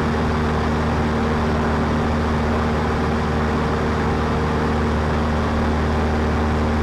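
Cessna 152's four-cylinder Lycoming engine and propeller running at a steady cruise power, a constant unchanging drone heard from inside the cockpit.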